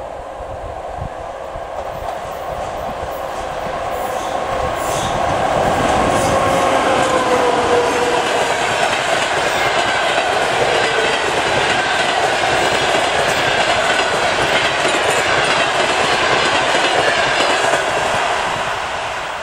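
Passenger train hauled by a ChS4 electric locomotive passing close by: wheels clicking over the rail joints and the coaches rumbling. It grows louder over the first few seconds, with a whine that falls in pitch as it comes by, holds steady while the coaches pass, then eases near the end.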